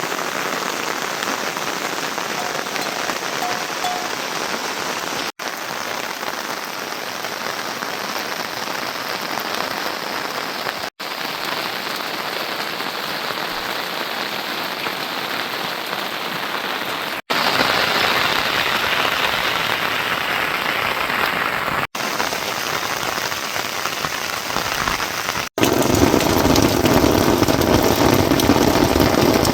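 Steady rain falling in several short stretches that break off abruptly and restart; the last few seconds are louder, heavier and deeper.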